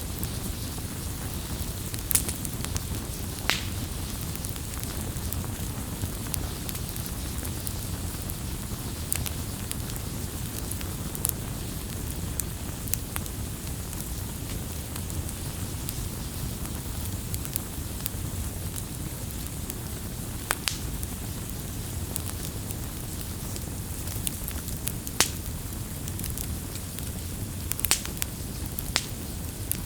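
Campfire burning: a steady low rumble of flames with scattered sharp crackles and pops of burning wood, a dozen or so over the half-minute.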